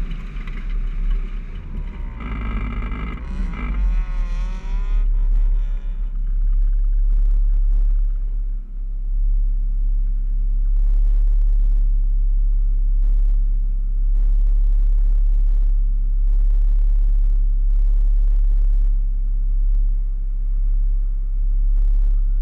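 Honda Civic engine running as the car drives through the lot, with some wavering high pitches in the first few seconds, then settling to a steady idle with a low rumble while the car waits at the start line.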